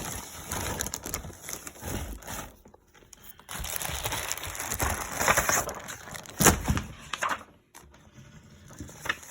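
A shipping box being unpacked: cardboard and packing material rustling and crinkling in irregular handling noises, with a sharp knock about six and a half seconds in.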